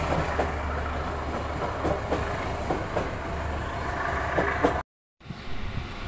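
Passenger train running on station tracks: a steady low diesel drone under a rushing noise, with irregular wheel clicks over rail joints. The sound cuts off abruptly about five seconds in, then a quieter outdoor background follows.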